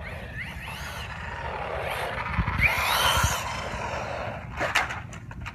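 Losi Baja Rey 1/10-scale electric RC desert truck driving on dirt: motor whine rising in pitch with throttle over tyre and gravel noise, loudest about halfway through, with a few sharp clicks near the end.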